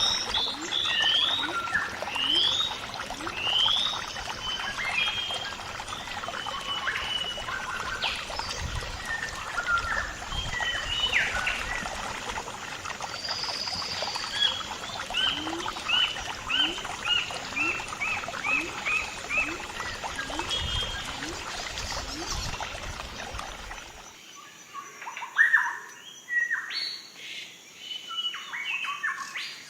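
Birds chirping and calling: repeated series of short rising chirps over a steady outdoor background. About 24 seconds in, the background cuts off abruptly and sparser, sharper calls follow.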